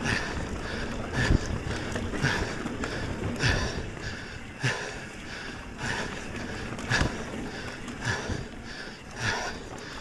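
A mountain biker breathing hard in an even rhythm, about one breath a second, over the rumble of tyres and the bike on a dirt trail.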